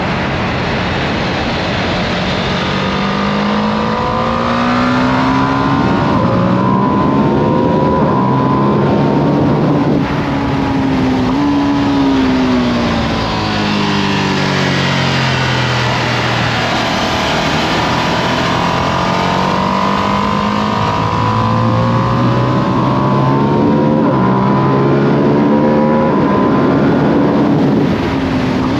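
2025 Ducati Panigale V2S V-twin on its stock exhaust, run hard on track. Engine pitch climbs repeatedly as it accelerates through the gears, then falls away under deceleration, over steady wind rush.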